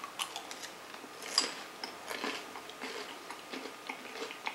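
A person chewing a mouthful of coated buffalo cauliflower bites close to the microphone: irregular small clicks and smacks of the mouth, the strongest about a second and a half in.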